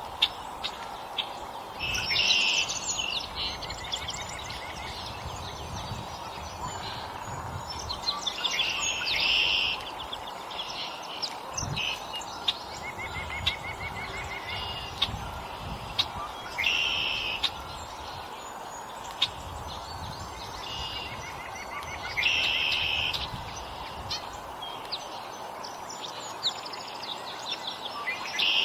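Wild songbirds at a backyard feeder calling and singing. Bright phrases come every few seconds, with a few quick trills in between, over a steady faint background hum.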